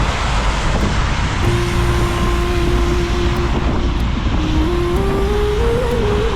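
Road traffic on a rainy city street, heard from a moving bicycle: a steady, loud wash of vehicle and tyre noise. Through it runs a motor's held hum that climbs in pitch in small steps near the end.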